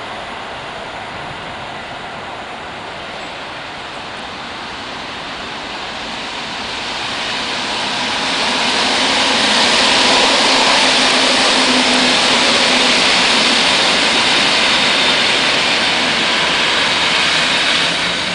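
Electric train running past on the tracks below: a steady rush of wheels on rail that swells from about seven seconds in and stays loud, with a low hum in it, easing off near the end.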